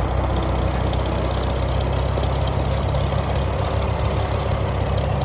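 Farmall 400 tractor engine running at a steady idle.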